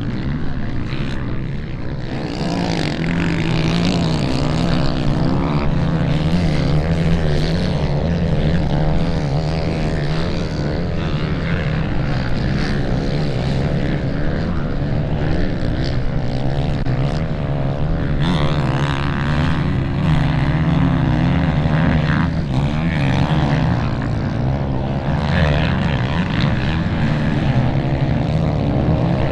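Off-road motorcycle engines running and revving continuously, their pitch rising and falling as the bikes race.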